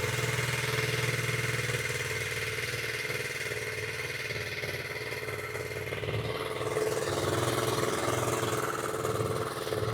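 Honda Z50 mini bike's small four-stroke single-cylinder engine running steadily on full choke, just after a cold start following years of storage; its speed wavers slightly, picking up a little about two-thirds of the way through.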